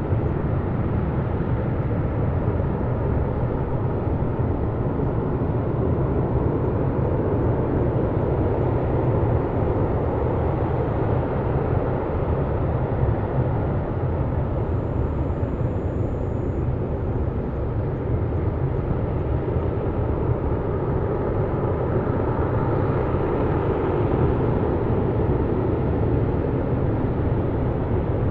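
LE-9 liquid-hydrogen/liquid-oxygen rocket engine for the H3 rocket firing on the test stand during a qualification burn, heard from afar as a steady, unbroken rumble with most of its weight in the low end.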